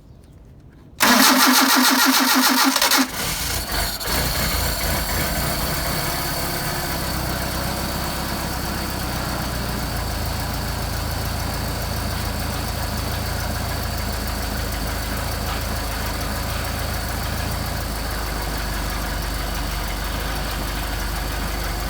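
Car engine on Solex carburetors cold-started on the choke alone, without pumping the throttle: the starter cranks for about two seconds, the engine catches about three seconds in and settles into a steady idle on choke.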